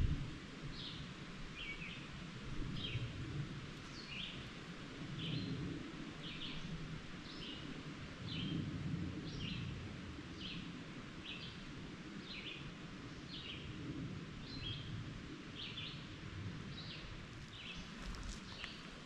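A bird repeating one short, high chirp at an even pace, about three every two seconds, over a low rumble.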